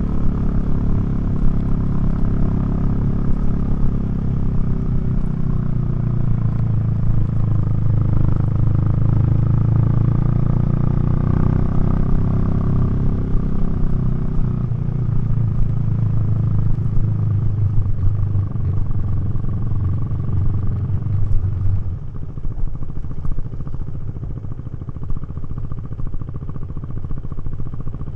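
KTM 390 Duke's single-cylinder engine and Remus exhaust running steadily while riding, heard close up, with the engine note sagging slightly in pitch partway through. About 22 seconds in it gets quieter as the throttle eases off.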